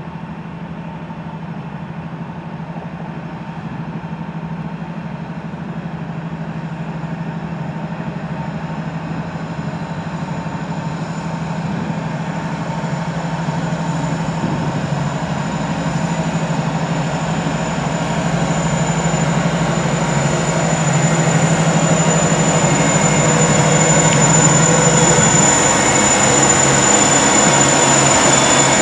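Norfolk Southern freight train's diesel locomotives approaching and drawing alongside, the engine drone growing steadily louder. A high, thin whine strengthens through the second half.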